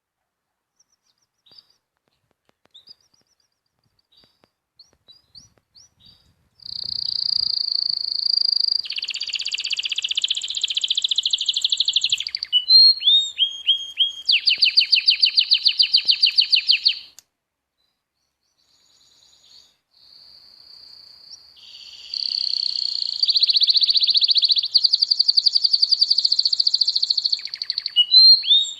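A songbird singing: a few faint chips at first, then two long bouts of fast trills and quick downward chirps, with a pause of a few seconds between them.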